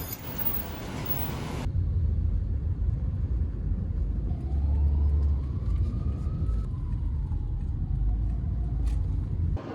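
Low, steady rumble of a moving vehicle heard from inside, with a faint whine that rises midway and then falls away.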